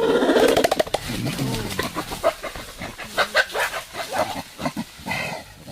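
Gorilla growling and grunting, with irregular thumps mixed in. A short higher cry comes near the end.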